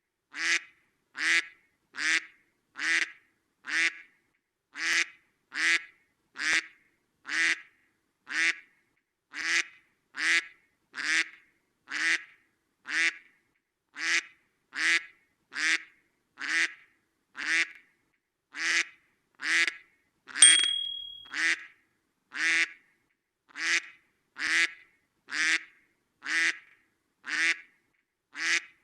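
A duck quacking: the same single quack repeated at an even pace, a little over once a second. About two-thirds of the way through, one louder sound with a steady high tone lasts about a second.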